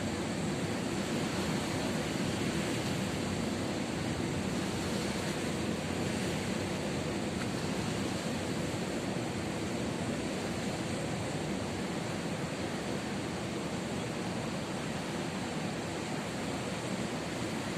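Ocean surf: waves breaking and washing in a steady, even wash of noise.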